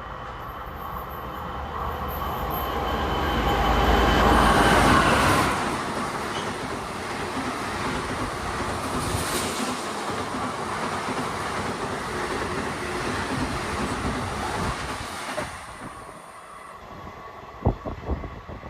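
Express train running through a station at speed: the rumble of the locomotive builds to a peak about four seconds in, then a steady rush of coaches passes and fades after about fifteen seconds, with a few sharp knocks near the end.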